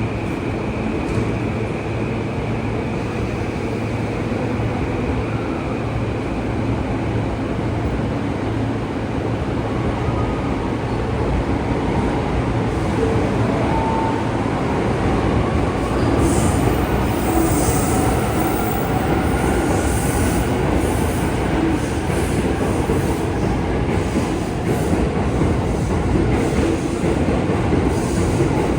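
Tokyo Metro subway train running after its doors close: a steady rumble of wheels on rail with a faint whine that rises in pitch and some wheel squeal in the second half.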